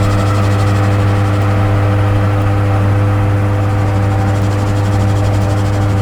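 Dark ambient electronic drone: a loud, steady low hum with several held tones above it and a layer of hiss, unchanging throughout.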